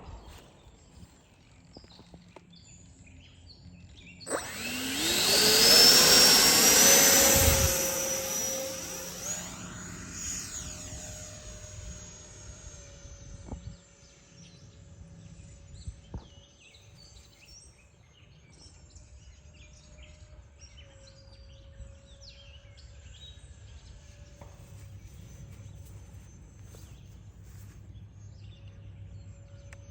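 RC F-15 Eagle jet's electric ducted fans whining. They spool up suddenly about four seconds in, rising in pitch and loudest for several seconds as the jet goes by close. The pitch then drops and the whine fades to a faint steady whine as the jet flies away.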